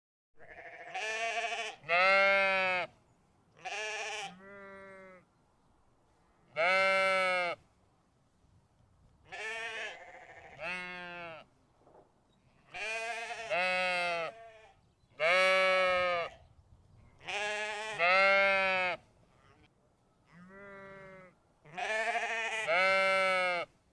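Sheep bleating repeatedly: about fifteen calls, many in quick pairs, with short pauses between.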